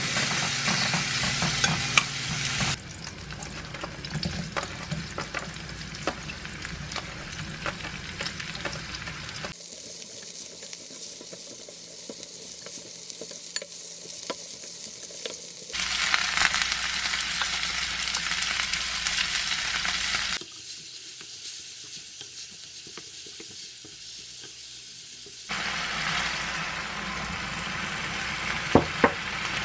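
Sliced duck meat, then cabbage and onion, sizzling in a frying pan while being stirred and turned with tongs and a wooden spatula. The sizzle comes in several spliced takes, louder at the start, in the middle and near the end, with a couple of sharp knocks of the utensil near the end.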